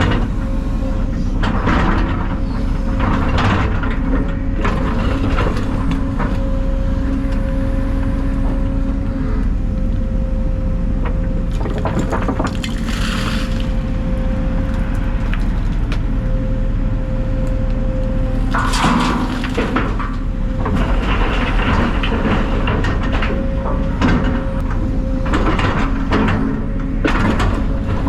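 Excavator engine running steadily with a thin steady whine, while demolition debris crunches and cracks in irregular bursts as it is loaded into a dump truck.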